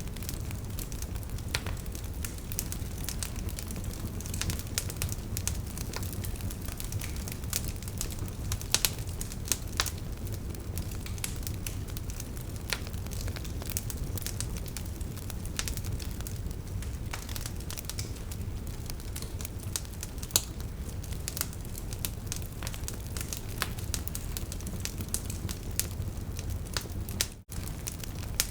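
Wood fire burning, with frequent irregular sharp crackles and pops over a steady low rumble of flames. The sound cuts out for a moment near the end.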